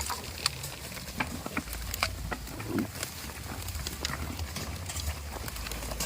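Goats moving about, with scattered sharp clicks and knocks at uneven intervals and one short low sound a little before the middle, over a steady low rumble.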